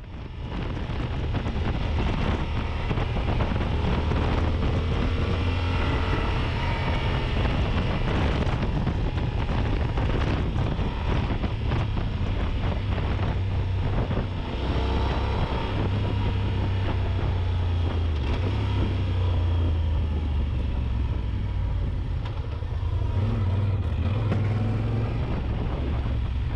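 Yamaha Super Ténéré's parallel-twin engine running under way, with wind and road noise rushing over the microphone; the engine note rises and falls slightly now and then.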